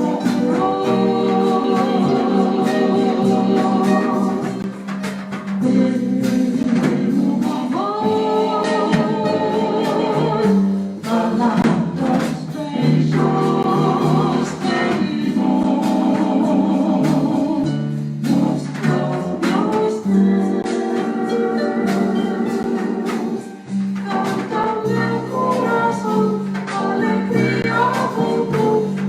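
Live Brazilian jazz ensemble playing: a held melody line, sliding up into some notes, over a moving bass line.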